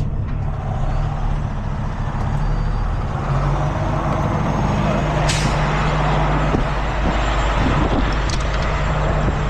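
Heavy rotator tow truck's diesel engine running steadily, with a short burst of air hiss about five seconds in.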